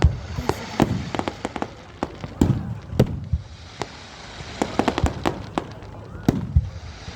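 Fireworks display: a string of sharp aerial bangs at irregular intervals, some followed by a rumbling echo, with a quick cluster of crackling reports about halfway through.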